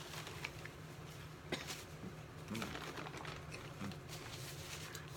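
A person biting into and chewing a Whopper burger: faint, irregular mouth and chewing noises over a steady low room hum.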